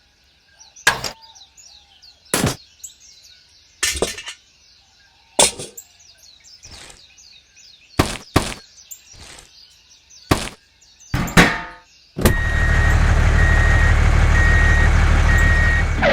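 Small birds chirping faintly with a series of separate sharp knocks, then about twelve seconds in a loud steady machine noise with a low hum starts up and keeps running.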